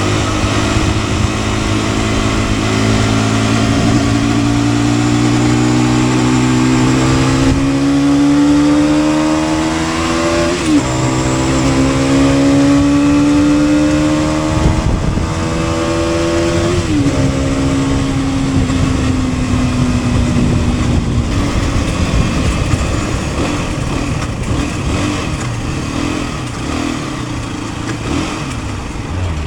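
Motorcycle engine accelerating through the gears: its pitch climbs steadily, drops sharply at an upshift about ten seconds in, climbs again and drops at a second upshift about seventeen seconds in, then runs steadier.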